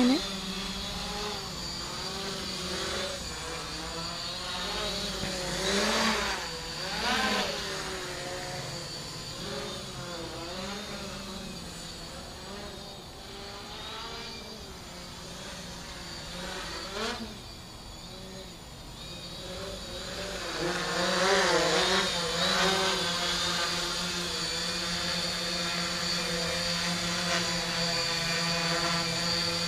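Radio-controlled tricopter's electric motors and propellers buzzing in flight, the pitch wavering up and down as the throttle and motor speeds change, with louder surges a few times.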